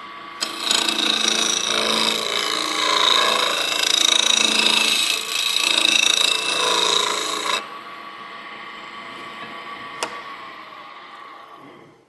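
Bowl gouge cutting a block of wood spinning on a wood lathe, a steady scraping for about seven seconds. The cutting then stops and the lathe runs on quieter, with one click near 10 s, winding down to silence near the end.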